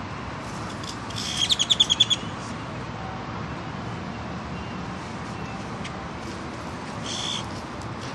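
A bird calling: a quick run of about eight chirps about a second in, and a shorter call near the end, over steady background noise.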